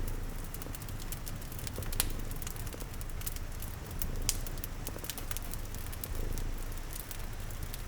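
Wood fire crackling, with sharp pops, the loudest about two and four seconds in, over steady rain and a cat's low, pulsing purr.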